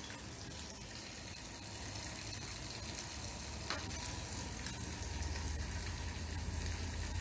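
Salmon frying in a pan, a steady sizzle, with a couple of faint clicks.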